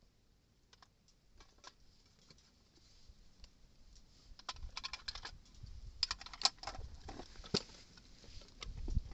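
Irregular light clicks and crackles, sparse at first and growing denser and louder about halfway through, over a low rumble of wind on the microphone.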